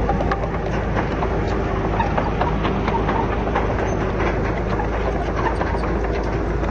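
Komatsu D31PX crawler bulldozer running steadily, with a constant low diesel drone and rapid metallic clatter from its tracks.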